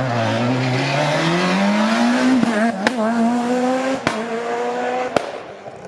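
Rally car engine accelerating hard at full load, its pitch climbing steeply and then more slowly. Three sharp cracks come about a second apart, and the sound falls away near the end as the car passes on.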